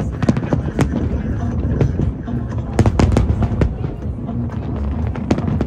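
Aerial fireworks shells bursting in quick, irregular succession: a string of sharp bangs and crackles over a continuous rumble, thickest about three seconds in.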